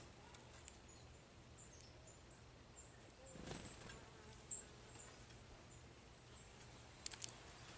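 Near silence: faint outdoor background with a few short, faint high chirps and a few soft clicks.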